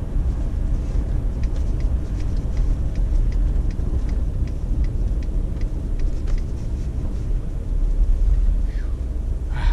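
Car driving, its engine and tyres giving a steady low rumble, on a road slick as ice.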